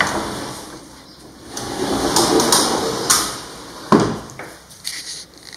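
Triple-track sliding doors being slid along their tracks, with a rolling, rushing sound, and a sharp knock about four seconds in, followed by a few lighter knocks.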